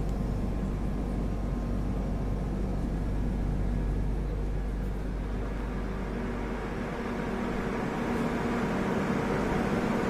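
Train noise: a steady low rumble with a constant machine hum, growing a little louder about eight seconds in.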